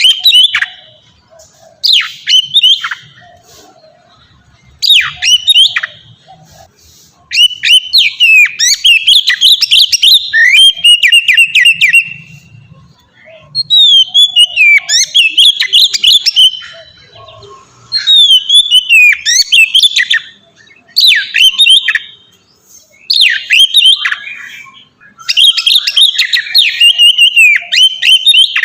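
Oriental magpie-robin singing its full song loudly: rapid, varied whistled phrases with sweeping notes and quick chirps. The song comes in bouts of one to five seconds separated by short pauses.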